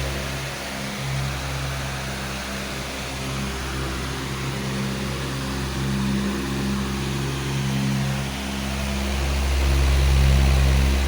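Powerful electric fan running steadily: a low motor hum over an even rush of air, the hum swelling and easing slightly every few seconds.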